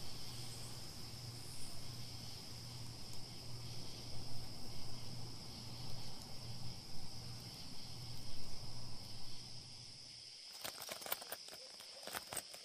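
Night-time forest ambience with crickets chirping steadily and a low hum that pulses about twice a second. About ten seconds in it gives way to a run of sharp clicks.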